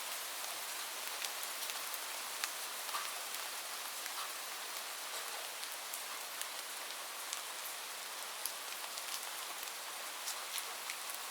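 Rain falling steadily on a roof: an even hiss with scattered sharp ticks of single drops striking.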